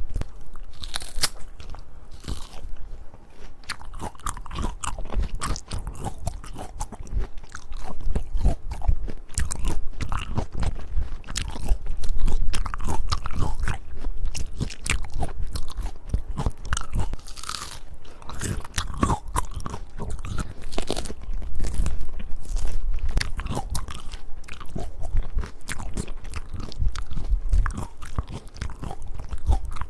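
Close-miked biting and chewing of peaches: repeated bites and steady chewing, with crackling clicks over low thuds throughout.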